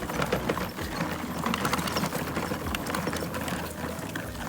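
Peg Perego battery-powered ride-on toy tractor driving: its electric motor and gearbox whirring, with irregular clicks and rattles from the plastic drivetrain and wheels.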